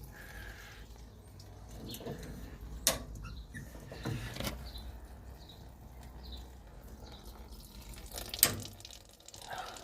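Stale petrol trickling steadily out of a Steyr-Puch Haflinger's fuel tank through its disconnected hose, with three sharp knocks during the flow.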